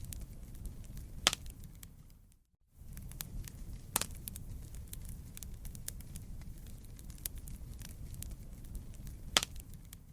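Wood campfire burning, with a steady low rumble and constant crackling, broken by sharp pops: a loud one just over a second in, one at about four seconds, and one near the end. The sound fades to near silence for a moment about two and a half seconds in, then comes back.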